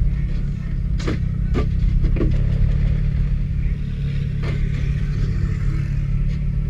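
Car engine running with a steady low rumble, with a few short knocks or clicks over it.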